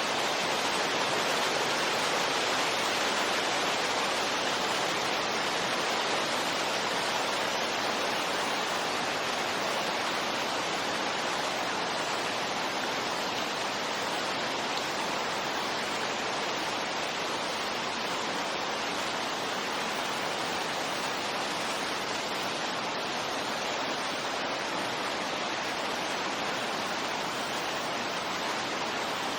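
Steady wind noise, an even rushing hiss with no gusts or swells, much like pink noise.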